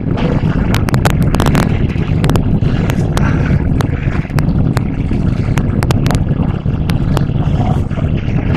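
Hybrid Electric Train running at speed, heard from inside the passenger car: a loud steady rumble with frequent sharp, irregular clicks and rattles.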